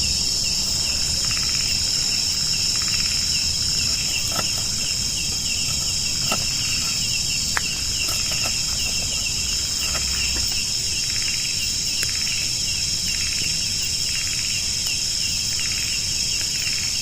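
Steady chorus of insects: a high shrill drone with a fast pulsing trill just beneath it, and a few faint sharp ticks scattered through.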